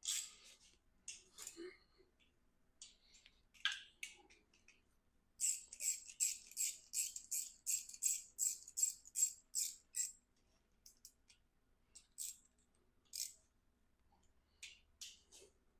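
Ratchet wrench clicking as bolts are snugged down on an engine, a run of quick, even metallic clicks about four a second in the middle, with a few scattered clicks and clinks before and after.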